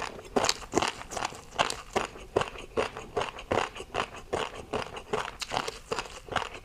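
Close-miked eating: a rapid, irregular run of crunchy bites and chewing.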